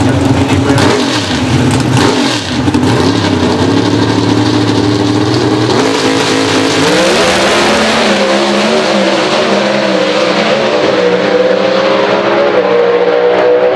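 Pro Stock drag cars' V8 engines running at high revs. The pitch climbs, with a sudden step up about seven seconds in.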